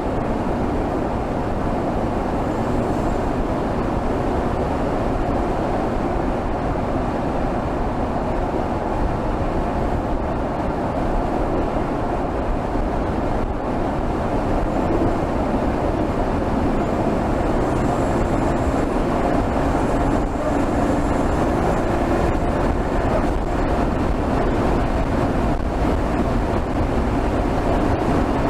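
2024 Mercedes GLS 450's turbocharged 3.0-litre inline-six engine, heard from under the hood, running steadily at highway cruising speed with no revving. Its sound is blended into a dense, even rush of noise.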